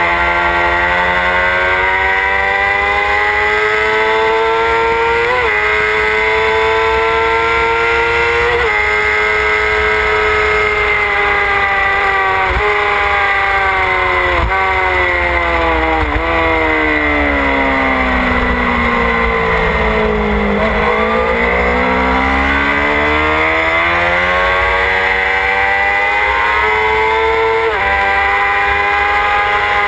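Motorcycle engine at high revs, heard from on board, accelerating through several quick gear changes. The pitch then falls steadily for about five seconds as the bike slows, before rising again and shifting up once more near the end.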